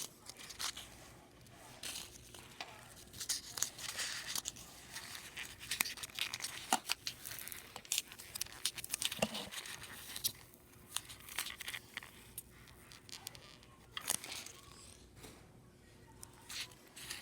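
Packing peanuts being handled and squeezed, giving irregular bursts of crackling and rustling with a few quieter pauses.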